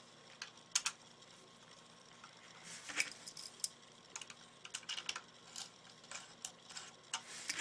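Irregular small clicks and taps as a screw and screwdriver are worked into the plastic body of a UA-937 Magnum airsoft revolver. The loudest tap comes about three seconds in.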